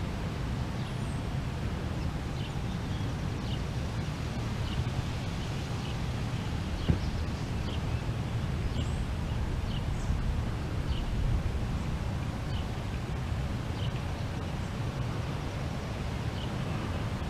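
Small birds giving short, high chirps, roughly one a second, over a steady low rumble. A single sharp click about seven seconds in.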